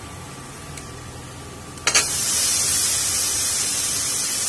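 Water-soaked brinjal (eggplant) pieces dropped into hot oil in an aluminium pressure cooker. A sharp clatter comes about two seconds in, then a loud, steady, high sizzle as the wet pieces hit the oil.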